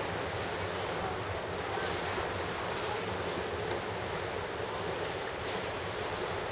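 Ocean surf, a steady wash of breaking waves with no single crash standing out, and some wind on the microphone.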